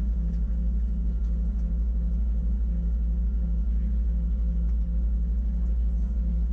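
Electric rack-railway train of the Wengernalp Railway running, heard from on board: a steady low rumble with a constant hum and a fast, even pulsing throughout.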